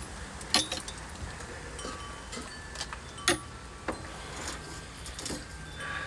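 Tools and metal parts being handled: scattered sharp clicks and clinks, the loudest about half a second in and just after three seconds, with a faint short ringing between them.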